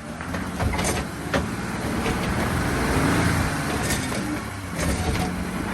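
Off-road 4x4's engine pulling under load as it drives over a rock obstacle, swelling about halfway through. Several sharp knocks from the tyres and underbody on rock are heard.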